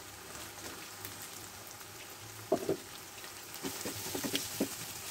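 Sliced onions and scrambled egg sizzling faintly in hot oil in a frying pan. A wooden spatula stirring them scrapes and knocks against the pan a few times from about halfway through.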